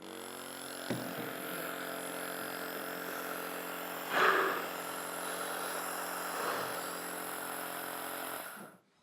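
Omron compressor nebuliser running: its small piston compressor gives a steady electric buzz. A brief louder rush comes about four seconds in, and the buzz cuts off suddenly near the end as it is switched off.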